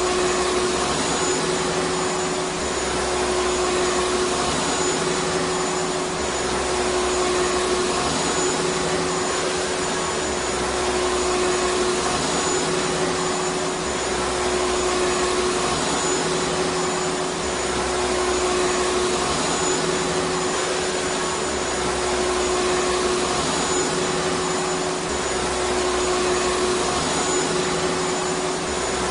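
Vacuum cleaner motor running steadily: a constant whooshing hiss with a fixed hum. A low rumble underneath swells and fades about every two and a half seconds.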